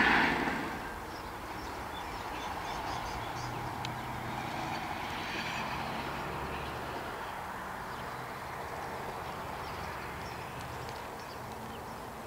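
A V/Line Vlocity diesel railcar running, fading out within the first second. It gives way to quiet open-air ambience: a faint steady low hum and a few faint, short bird chirps.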